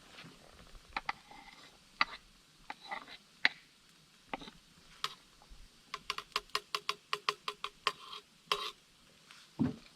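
A series of sharp clicks and light knocks from small hard objects being handled, with a quick, even run of about eight clicks a second between about six and eight seconds in.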